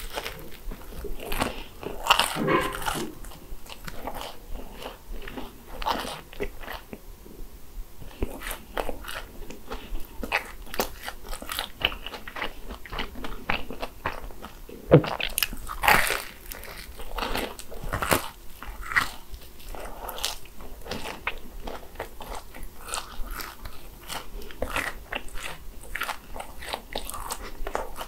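Close-up eating sounds of crisp croffles (croissant waffles): crunchy bites and chewing, an irregular run of crackly crunches with a few sharper, louder bites around the middle.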